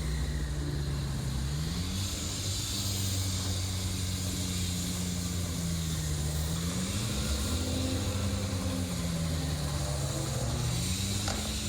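Street traffic: a vehicle engine running, its pitch slowly falling and rising several times over a few seconds, over a steady hiss of traffic noise.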